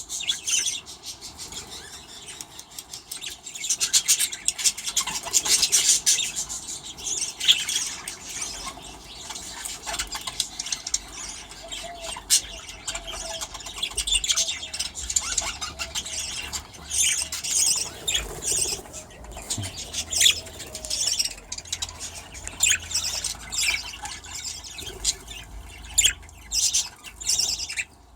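A flock of budgerigars chattering and chirping continuously, with high-pitched squawks.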